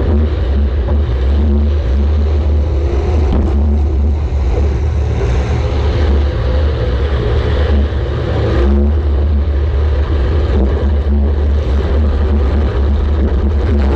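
A demolition-derby compact car's engine running, with a heavy, steady low rumble and broad mechanical noise over it.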